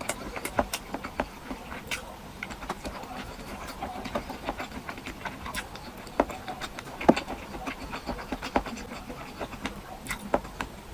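A person eating close to the microphone: irregular wet chewing and mouth smacks, a few a second, with a couple of sharper clicks around six and seven seconds in.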